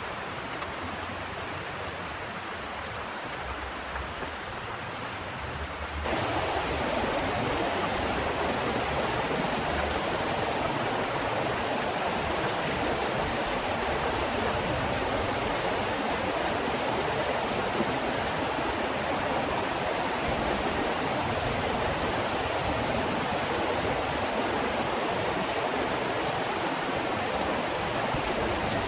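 Heavy rain pouring steadily; about six seconds in it turns abruptly louder and brighter.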